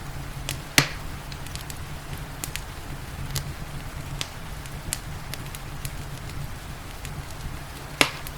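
Wood fire crackling in a fireplace, with scattered snaps and two loud pops, one about a second in and one near the end, over a steady hiss of rain.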